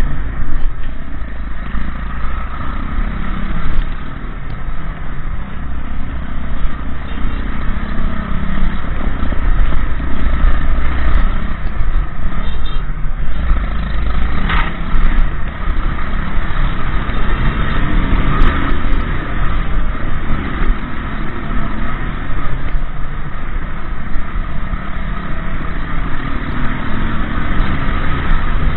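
Motorcycle riding along a road: a continuous loud low rumble whose loudness flutters throughout.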